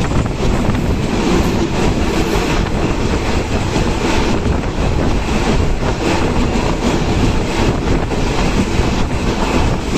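Moving Indian Railways passenger train heard from the coach window: a steady, loud rush of wheels running on the rails, with wind rushing past the microphone.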